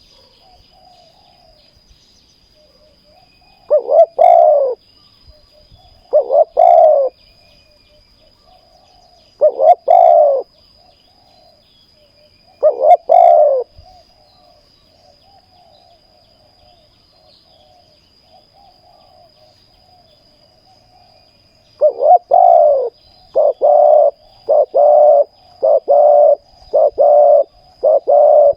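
Spotted dove cooing: loud coo phrases every few seconds with softer coos between, then, about two-thirds of the way through, a fast run of coos about one a second.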